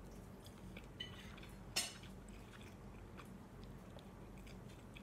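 Faint chewing of a bite of homemade cheese sausage, with small mouth clicks and one sharp click a little under two seconds in.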